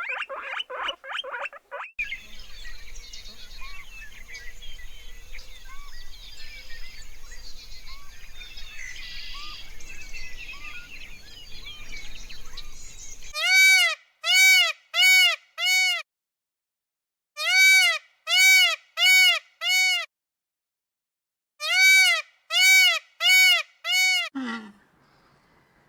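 A run of animal calls. First comes an outdoor background with scattered short chirps. Then loud, clean calls come in three groups of four, each call rising and falling in pitch, and near the end one call slides down low.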